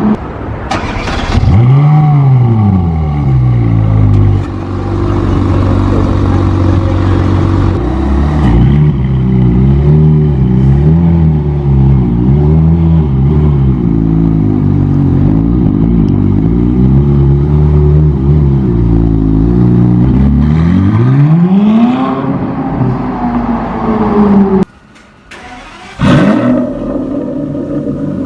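Car engines being revved hard, the pitch climbing and falling again and again, in short clips with a sudden cut near the end.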